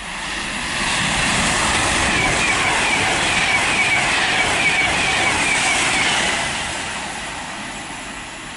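Class 390 Pendolino electric train passing through at speed: a rushing of wheels on rail and air that builds about a second in, holds for about five seconds, then fades.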